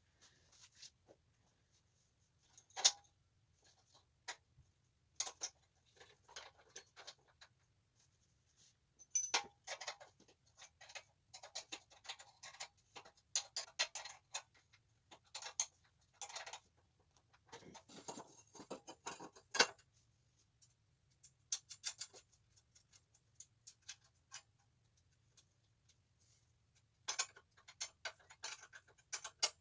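Hand tools clicking and clinking on the minibike's exhaust parts as they are fitted, in irregular bursts of short sharp ticks with quiet gaps between them.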